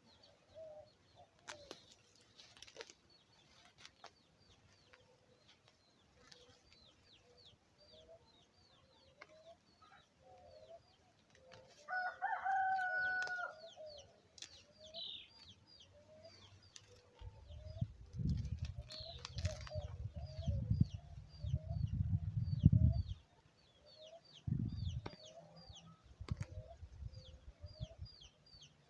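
A rooster crows once, about twelve seconds in, over hens clucking and small birds chirping again and again. A low rumble, the loudest sound here, comes and goes in the second half.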